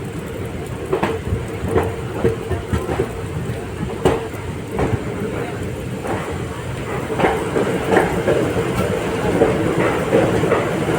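Passenger train running on the line, ICF coach wheels clacking over rail joints about once or twice a second over a steady rolling rumble that grows a little louder in the second half.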